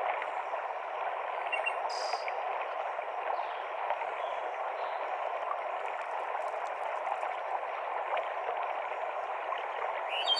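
Mountain stream cascading over rocks in a forest, a steady rush of water. A songbird chirps briefly about two seconds in and again near the end.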